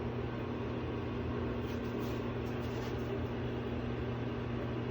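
Microwave oven running with a steady hum, heating a plate of onion pieces and stuffing.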